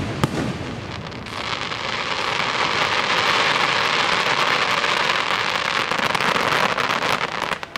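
Aerial fireworks: a couple of sharp shell bangs at the start, then about six seconds of dense, steady crackling from a sky full of crackling stars, which cuts off suddenly just before the end.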